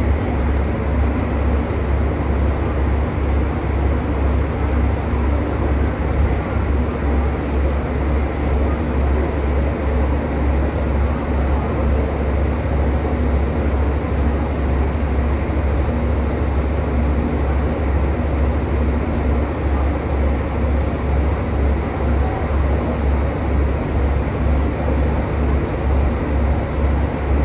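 Steady hum and whir of a JR Kyushu 813 series electric train standing at a platform, over the general noise of a crowded station platform. It stays even throughout, with no distinct events.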